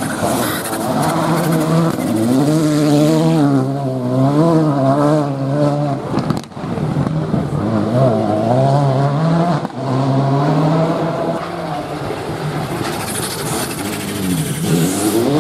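Rally car engine revving hard, its pitch rising and falling quickly with throttle and gear changes, with a short dip about six and a half seconds in.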